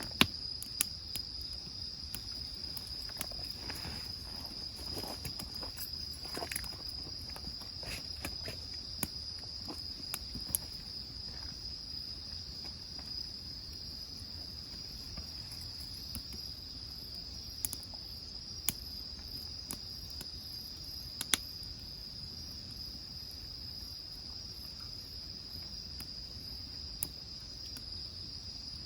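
Insects trilling steadily at a high pitch, with a wood fire in a grill crackling and snapping now and then in sharp single pops.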